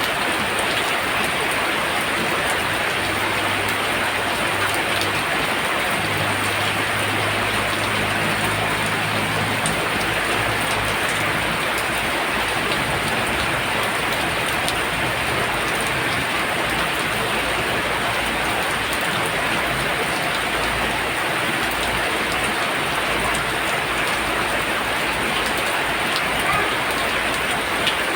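Heavy rain pouring down steadily, drumming on surfaces as a dense, even hiss.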